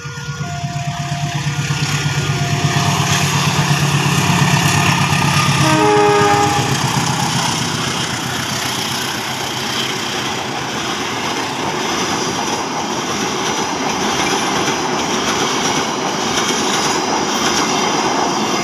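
Diesel-hauled passenger train passing close by: the locomotive's engine drone builds up, a short horn blast sounds about six seconds in, and then comes the steady rumble and wheel clatter of the coaches going past. Intermittent warning tones of a level-crossing alarm sound in the first few seconds.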